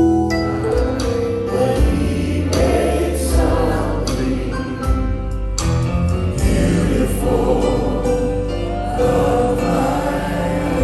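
Choir singing to music, in a gospel style.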